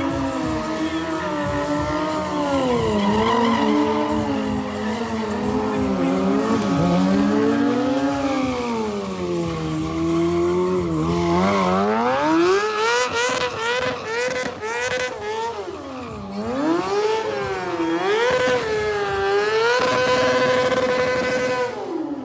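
Sport motorcycle engine revving up and down over and over during stunt riding, with tyre squeal. Near the end the revs are held high and steady for about two seconds, then drop.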